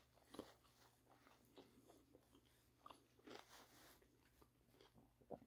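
Faint chewing of a mouthful of tortilla wrap filled with crunchy, only briefly blanched potatoes and jalapeños: scattered soft crunches, a few slightly louder ones among them.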